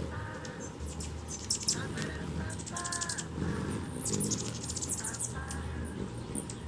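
Birds calling outdoors: a series of short, harsh calls repeating every half second or so, mixed with quick high chirps, over a steady low rumble.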